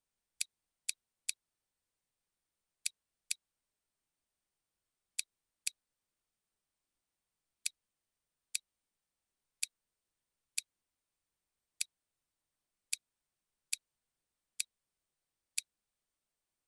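About sixteen sharp, identical clicks at uneven intervals, some in quick pairs, with dead silence between them.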